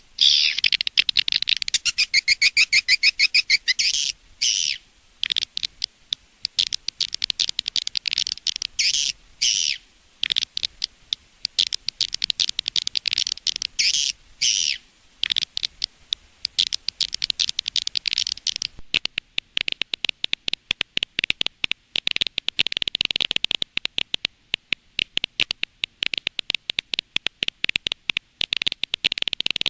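Swiftlet lure calls: rapid, high twittering chirps in quick bursts, switching about two-thirds of the way through to a denser, steadier stream of fast clicking chirps.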